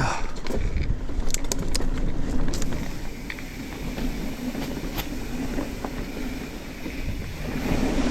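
Mountain bike rolling fast down a dirt trail: continuous tyre and rattle noise with a steady hum, and many sharp clicks and knocks from the bike over the rough ground, thickest in the first few seconds.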